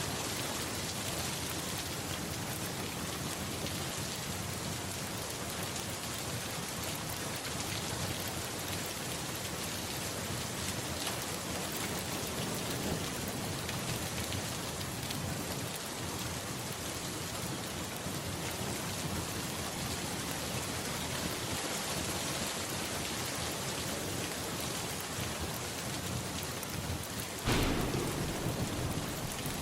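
Steady rain falling. Near the end a sudden low rumble of thunder rises over it.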